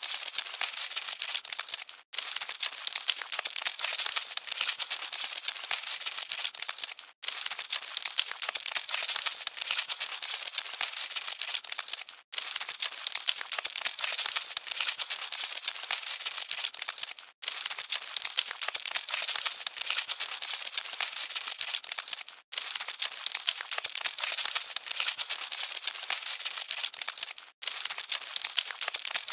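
Dense, fine crackling and scratching of cockroaches scuttling, with no low rumble under it. It repeats as a loop of about five seconds, cutting out for an instant at each repeat, six times in all.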